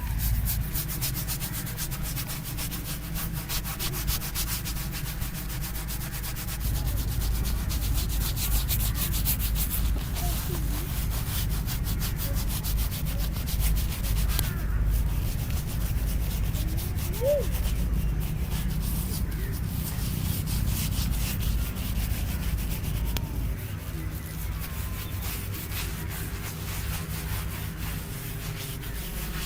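A razor blade scraping over chest skin and hair in continuous strokes: a dense rasp of many tiny clicks as the hairs are cut.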